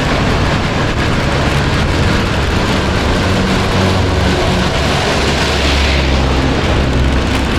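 Motor scooter being ridden: its small engine running steadily under a loud rush of wind and road noise on the microphone.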